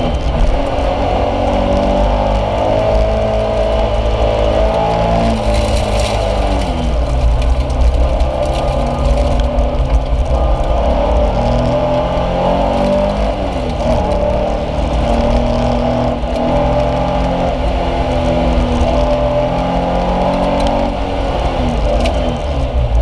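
Porsche 914 engine running hard through an autocross run, heard from inside the cabin. Its pitch repeatedly climbs under acceleration and drops off when the driver lifts or brakes, about three times, over steady road and tyre rumble.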